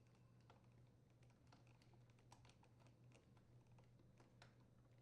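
Near silence with faint, irregular small clicks: a screwdriver threading a screw into the support bracket on a dishwasher door hinge.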